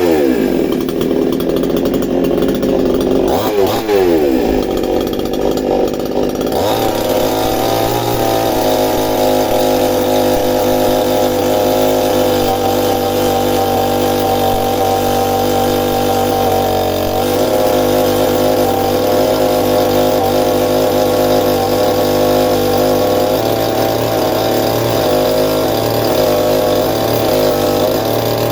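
Chainsaw running at high revs, working into a wooden stump. Its pitch drops just after the start and dips and climbs again about four seconds in, then it holds a steady high speed.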